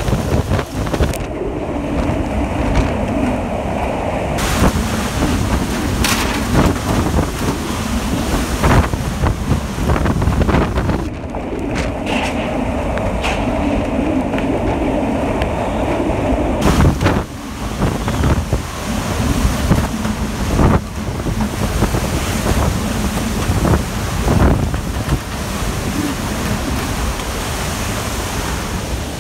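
Hurricane-force wind at the storm's peak: a loud, dense rushing noise that swells and drops with the gusts and buffets the microphone, with a few sharp knocks.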